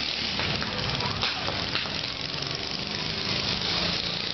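A vehicle engine running at low speed, a steady low hum, with a couple of short clicks in the middle.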